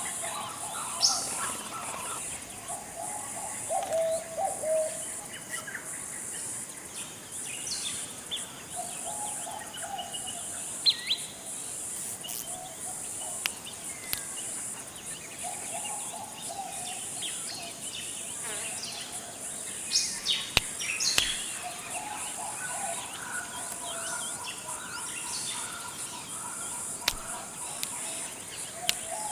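Tropical forest ambience: a steady, high-pitched insect drone throughout, with scattered short whistled bird calls and lower warbling calls that come and go every few seconds.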